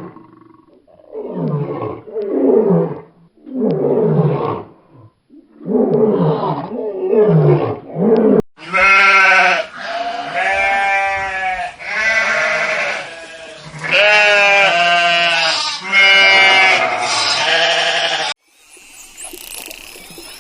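Animal calls: first a series of about six calls that each fall in pitch, then a run of longer, pitched, wavering bleat-like cries that stops suddenly a couple of seconds before the end.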